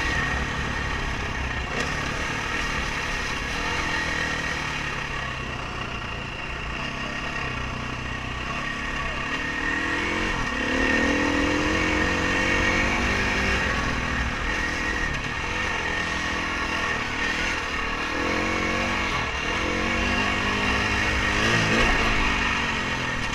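A dirt bike engine being ridden hard, its pitch rising and falling again and again with the throttle and gear changes.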